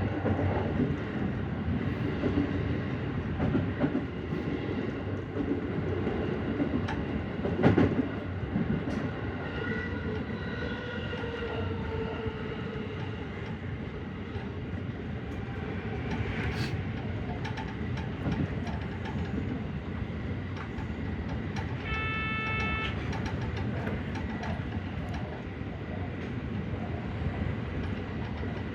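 JR 313 series electric train running at speed: a steady rumble of wheels on the rails with track clatter, a sharp knock about eight seconds in and a short tone around twenty-two seconds in.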